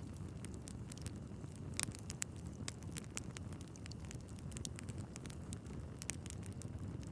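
Wood fire in a fireplace burning steadily with a low rumble of flames, and irregular crackles and sharp pops from the logs, a couple of them louder.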